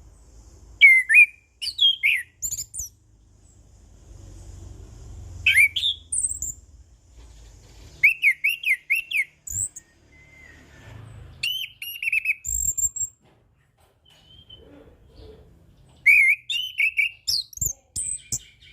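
Chestnut-capped thrush (anis kembang) singing in short bursts of varied whistled notes and rapid high-pitched twitters, with pauses of a second or two between phrases.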